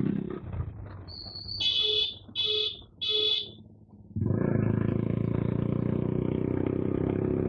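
Three short, high, horn-like beeps about two seconds in, then a Suzuki Gixxer motorcycle with an SC aftermarket exhaust running steadily from about four seconds in.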